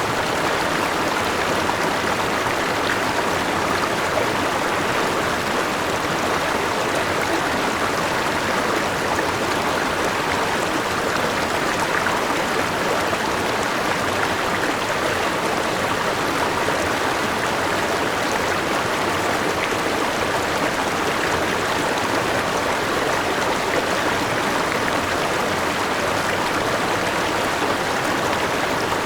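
River water rushing and splashing over a small waterfall in a steady, unbroken flow.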